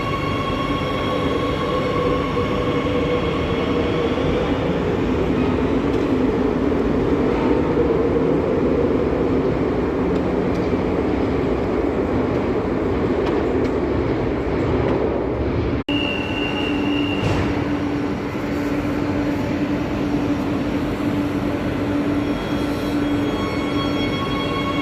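Madrid Metro series 8000 electric train running, with a steady rumble and rail noise. High steady whining tones fade out over the first few seconds and come back near the end. A sudden brief dropout falls a little past halfway.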